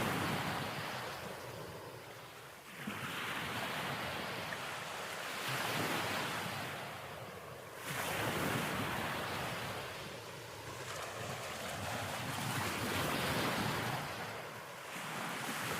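Ocean waves washing, a rushing noise that swells and fades every two to three seconds.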